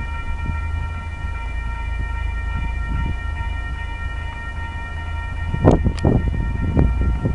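Coal train running past: a steady low rumble with a high-pitched ringing whine held over it, and two sharp clanks close together near the end.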